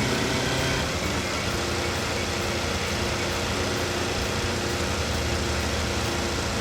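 Kawasaki Eliminator 250SE motorcycle running steadily, a constant engine sound with an even hiss over it.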